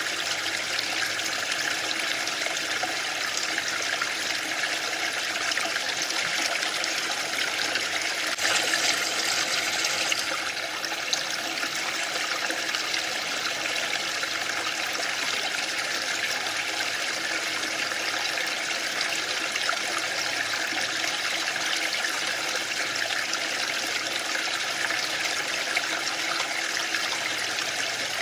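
Waterfall: falling water making a steady rushing hiss, with a brief louder surge about nine seconds in.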